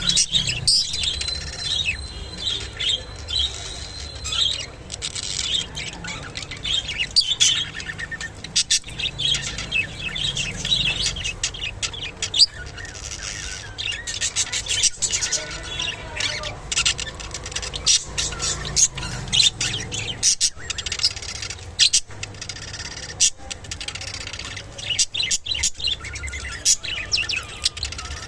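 Budgerigars chirping and chattering continuously, with many sharp clicks mixed in.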